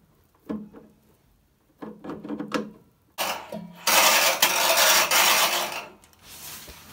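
Washing machine drum turned by hand, with a few light knocks and then a loud scraping rattle lasting nearly three seconds. The rattle comes from a stray wire caught between the drum and the outer tub, which is still there after the wire on the heating element was removed.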